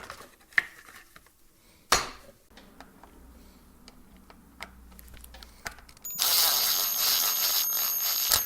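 A handheld power tool runs steadily for about two seconds near the end. Before it come a couple of sharp knocks of parts being handled on the bench.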